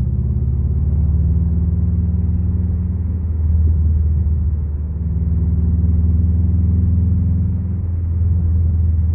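Engine of a 1991 Subaru Legacy turbo with a forged turbocharged flat-four, heard from inside the cabin while cruising. It gives a low, steady drone that shifts slightly in pitch a few times, over road noise.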